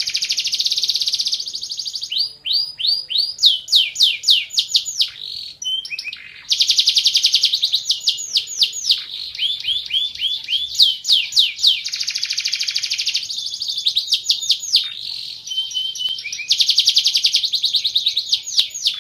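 A Van Hesterling canary singing a long, loud song of rapid trills: runs of quickly repeated sweeping notes, some fused into fast buzzing rolls, switching to a new note type every second or two, with a brief pause about six seconds in.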